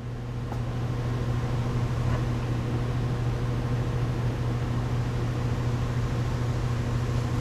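Steady low mechanical hum, with a couple of faint clicks in the first few seconds.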